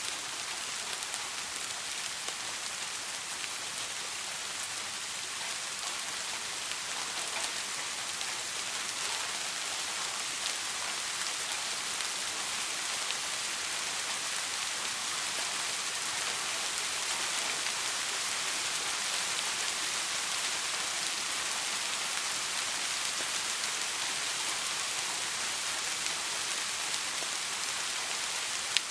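Steady soft rain falling on a surface, a dense even hiss of drops with faint individual drop ticks. It grows slightly louder after the middle.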